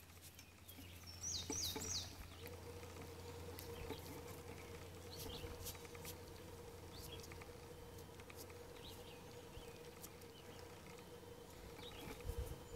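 Faint bird chirps: a quick run of three or four short, downward-sweeping high chirps about a second in, then scattered single chirps, over a faint steady hum.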